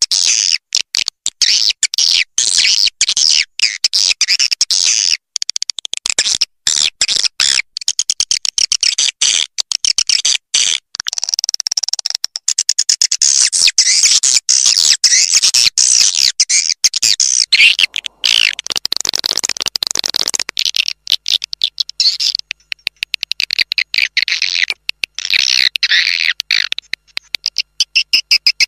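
Swiftlet roosting call ('suara inap') lure recording: dense, high twittering chirps that keep cutting out for brief moments. It is played at swiftlet houses to draw the birds in to roost.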